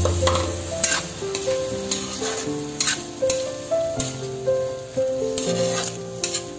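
Shrimp and sauce sizzling in a metal wok while a spatula stirs them, its strokes scraping against the pan about once a second. Background music with a slow melody plays along.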